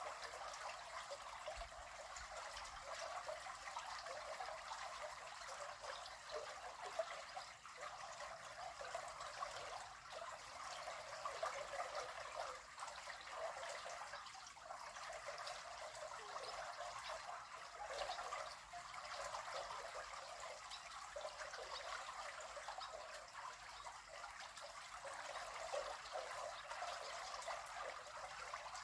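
River water running steadily, a soft even rush of flowing water.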